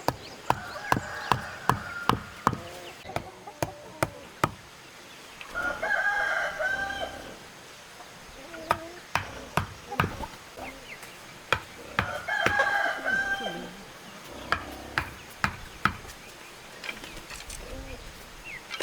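A rooster crowing twice, each crow nearly two seconds long, over a run of sharp, irregular knocks.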